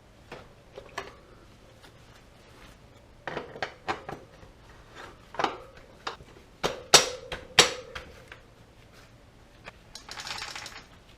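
Small metal parts and tools clinking and knocking on a bench: scattered sharp clinks, the two loudest ringing briefly, then a short hiss of about a second near the end.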